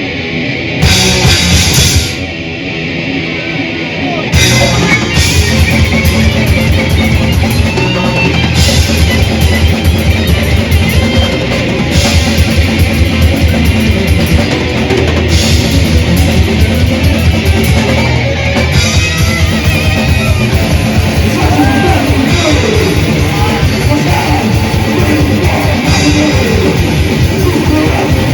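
Death/thrash metal band playing live: distorted electric guitars, bass and a drum kit. A sparser, quieter passage lasts about four seconds, then the full band comes in hard with fast, driving drumming.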